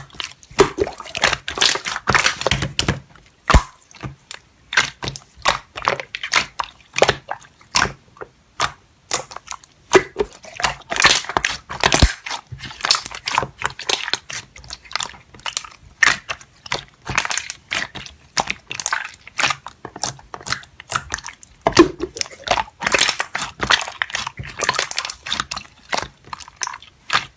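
Slime being squished and pressed by hand: a dense, irregular run of crackling clicks and small pops, coming in louder clusters.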